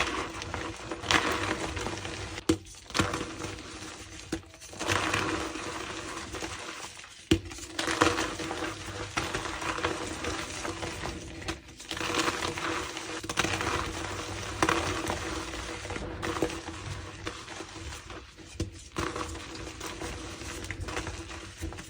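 Reformed gym chalk blocks being crushed, giving an irregular run of dry crunches and crumbling with a few sharp cracks.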